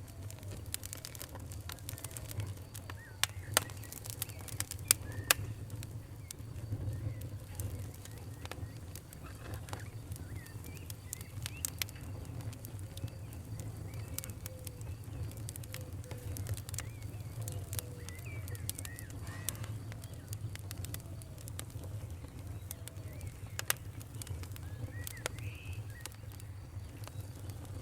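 Campfire crackling with scattered sharp pops over a steady low rumble, the loudest pops a few seconds in. Birds chirp now and then in the background.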